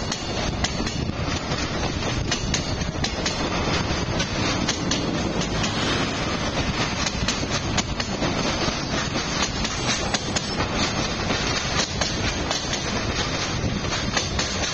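Freight train's wagons rolling slowly during a shunting move, wheels clacking over rail joints with many short clicks in a steady loud rumble.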